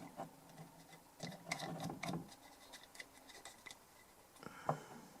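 Faint clicks and light scrapes of small metal parts and a hand tool being handled during the assembly of a DI box: a cluster of clicks about a second in, and a few more near the end.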